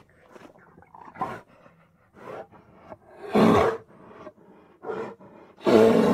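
Bear sound effects from an animated film: two loud roars, one about three and a half seconds in and one near the end, with shorter, quieter calls between them.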